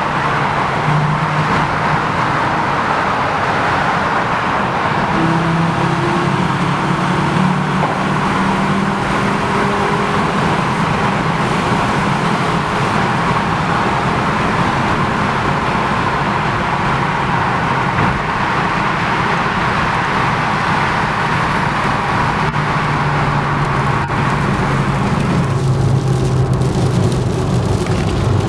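Volkswagen Golf Mk4 2.3 V5 engine running through a modified aftermarket exhaust, a steady engine note that rises and falls only a little in pitch, over a constant rushing noise.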